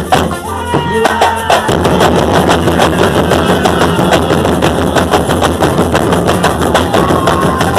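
A traditional carnival bloco's percussion band playing live, with fast, dense drumming throughout.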